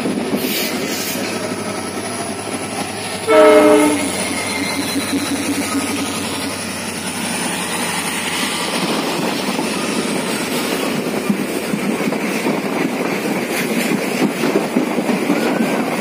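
Passenger express train running at speed, with a steady rumble and clatter of wheels on rails. About three seconds in, a short, loud blast of the locomotive horn fades away over about a second and a half.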